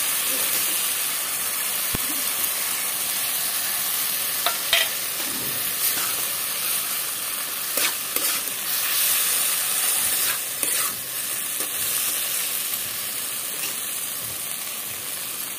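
Chopped tomatoes sizzling in hot oil in a kadai while being stirred with a steel spatula, with a steady frying hiss and a few sharp scrapes and knocks of the spatula against the pan. The tomatoes have softened and are being fried down with added ground masala.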